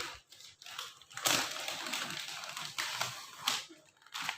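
Handling noise from unpacking and assembly: a run of clicks and knocks with rustling, densest from about a second in until about three and a half seconds.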